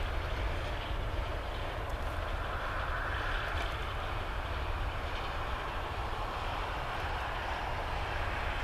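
Distant freight train running on out of sight, heard as a steady low rumble with a hiss of wheels on rail that swells slightly a few seconds in.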